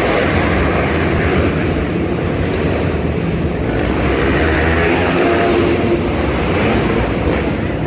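Steady, loud rumbling noise of a running vehicle, with a faint low hum through it.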